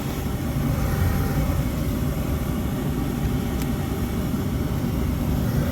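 Gas package HVAC unit running steadily, its inducer and indoor blower motors on: an even low hum with a rush of air.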